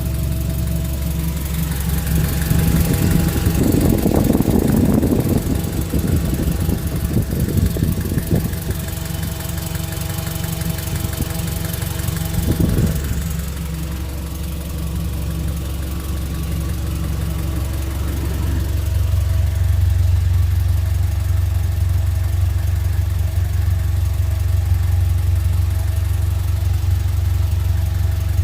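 Nissan Z20S four-cylinder engine running at idle with a steady low hum. It briefly gets louder and rougher a few seconds in, and the low hum grows heavier about two-thirds of the way through.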